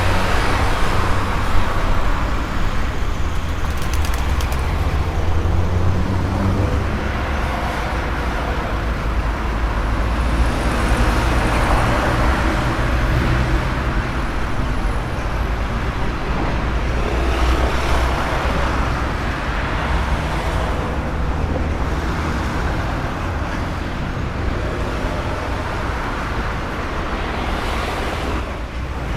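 Road traffic: a steady stream of cars and heavier vehicles passing, engines rumbling and tyres hissing, swelling and fading as each one goes by.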